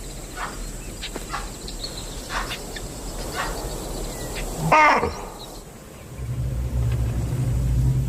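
Alarm calls from impala and baboon sentries that have spotted a stalking lion: short sharp calls repeated every second or so, then one loud bark with a falling pitch about five seconds in. Low, steady background music comes in near the end.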